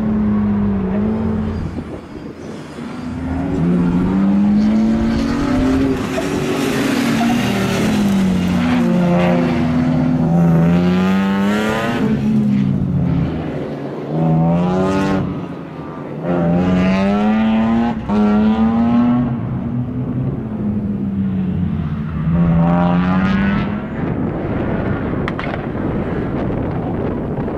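BMW 323ti Compact's straight-six engine revving hard, its pitch rising and falling again and again as the car is driven through tight corners. Near the end the engine note fades out and a steady rush of wind on the microphone remains.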